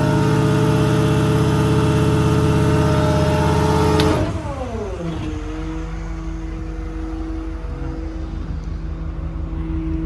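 International Terrastar's MaxxForce diesel running at raised idle to drive the PTO and hydraulic air compressor. About four seconds in, the engine speed falls over about a second and settles at a lower, quieter idle.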